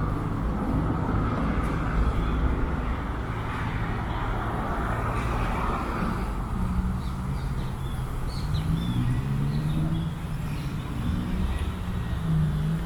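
Road traffic: vehicles passing with tyre noise and engine hum. A passing vehicle's tyre noise swells and fades in the first half, and a low engine note wavers in pitch in the second half.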